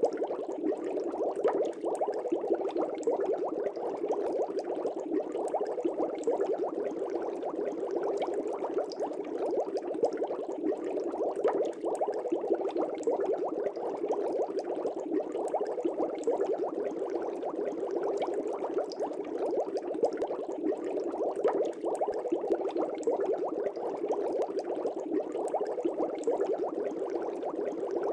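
Steady, dense bubbling of air rising through water in a fish tank, a continuous stream of small pops and gurgles.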